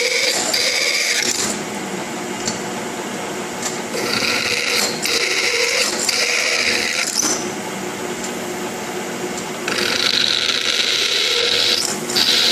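Milling machine drilling holes in a steel plate: the spindle runs steadily, and three times the pitch rises into a higher cutting whine for one to three seconds as the bit bites into the steel, then drops back.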